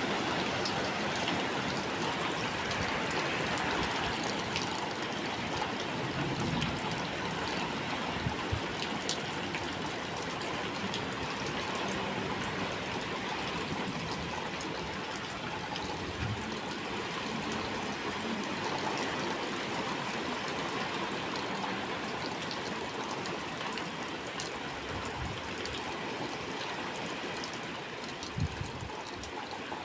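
Heavy rain falling steadily, with a few brief dull knocks.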